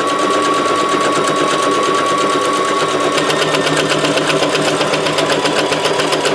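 Electric sewing machine running a continuous straight stitch through paper: a steady motor whine with rapid, even needle strokes. About three seconds in the whine drops slightly and the needle strokes grow more distinct.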